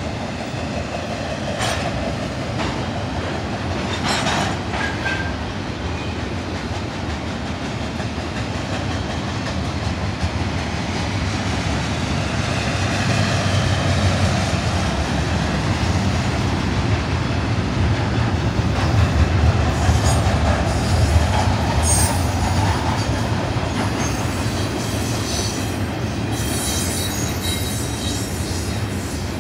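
Double-stack intermodal freight train's well cars rolling past: a steady loud rumble of wheels on rail, with scattered sharp clacks and brief high wheel squeals now and then.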